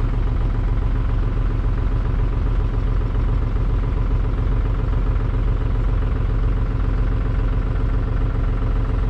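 Tractor engine and grain auger running steadily while unloading soybeans, a constant mechanical drone.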